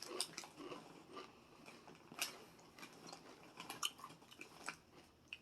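Someone chewing and crunching on crunchy barbecue corn chips, with scattered sharp crunches, the clearest about two seconds in and again near four seconds.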